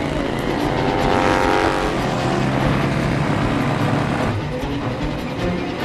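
Side-valve V-twin engine of a 1920 Indian Scout motorcycle running hard under acceleration, its note rising about a second in.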